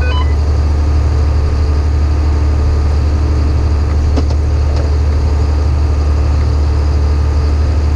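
John Deere 7800 tractor's diesel engine running steadily under load, a constant low drone while it pulls a grain cart alongside a combine during an unload on the go.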